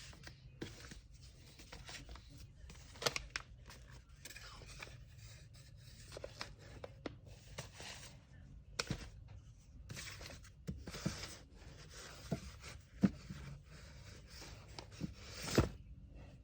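Packing materials being handled on a table: paper rustling in patches, with scattered light taps and clicks. Near the end a louder rasp builds and stops sharply.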